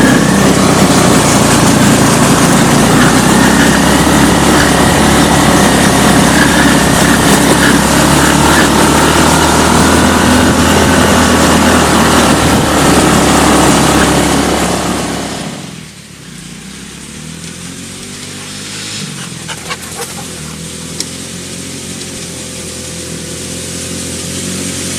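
Engine of a homemade quad bike running loudly under way, then dropping to a much quieter steady idle about fifteen seconds in, with a few short sharp sounds a few seconds later.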